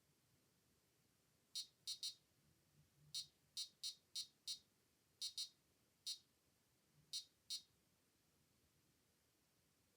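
Short, high-pitched electronic beeps from a ghost-hunting detector's alarm, about thirteen of them at irregular intervals, some in quick pairs. They start about a second and a half in and stop a couple of seconds before the end, over near silence.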